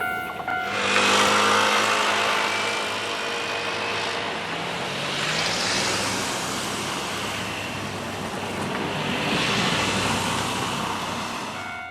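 Keihan electric train passing close by the level crossing: a steady rush of wheel and track noise with motor whine gliding in pitch, starting under a second in and easing off near the end as the crossing bell comes back through.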